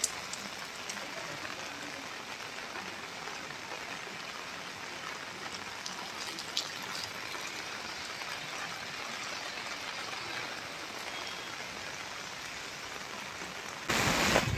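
Steady rain falling, an even hiss with a few drops ticking now and then. Near the end a sudden louder rush of noise lasts less than a second.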